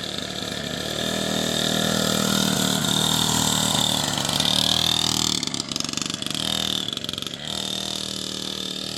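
Small dirt bike engine running, its revs and loudness rising over the first few seconds, then easing off about five seconds in to an uneven, lower putter.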